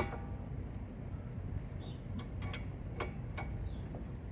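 Scattered sharp metallic clicks and taps from hand tools being handled while working on the steering, the sharpest one right at the start, over a low steady background rumble.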